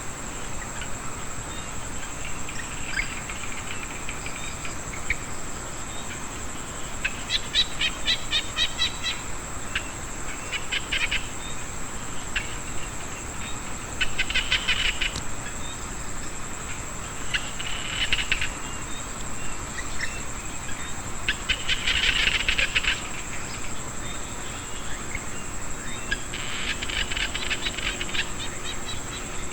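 Frogs and insects calling in a rice paddy after rain: a steady high insect whine, with bursts of fast rattling calls every three to four seconds.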